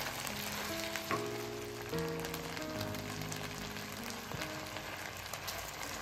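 Pork intestine pieces and garlic sizzling and crackling in hot oil in a pan while a metal ladle stirs them. Soft background music with held notes plays underneath.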